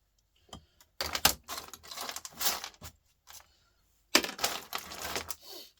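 Small scrap electronic parts and metal bits clattering and rattling as they are handled and sorted on a workbench, in two busy runs of rapid clicks.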